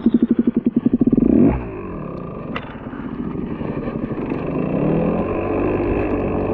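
KTM EXC 125 two-stroke enduro engine revved hard in a fast stuttering pulse for about a second and a half while the bike struggles to move forward in snow. It then drops back and runs on steadily, picking up revs again past the middle.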